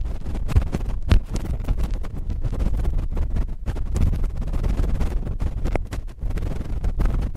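Cotton swab scratching and rubbing directly on a microphone: continuous close scraping, heavy in the low end, with many small clicks and crackles throughout.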